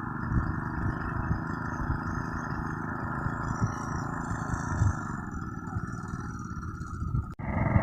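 Two-wheel hand tractor's single-cylinder diesel engine running steadily while it levels a field, with a brief dropout near the end.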